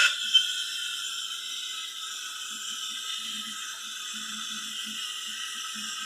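Espresso machine running with a steady hiss and a faint steady hum, a short click about a third of a second in.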